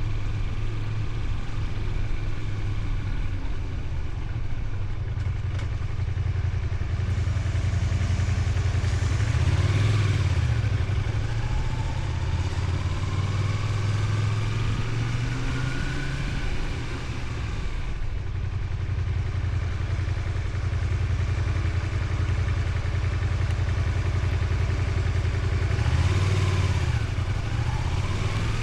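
Honda VTR250's V-twin engine running steadily while riding. Its note rises and falls briefly about ten seconds in and again near the end.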